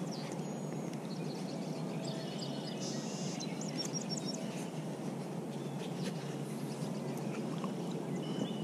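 Steady outdoor background noise with a small songbird calling: a quick run of high chirps about three seconds in, and a few fainter chirps elsewhere.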